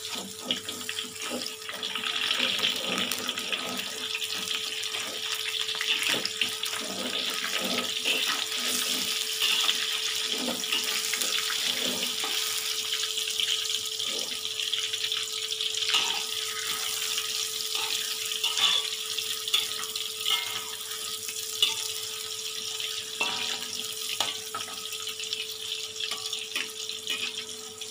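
Tofu cubes sizzling and crackling as they fry in hot oil in a wok, with a spatula scraping and tapping against the pan now and then.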